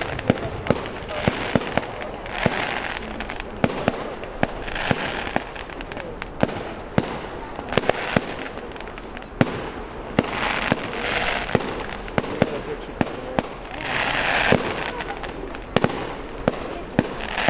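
Fireworks display: a rapid, irregular run of sharp bangs and pops, several a second, with recurring patches of hissing crackle.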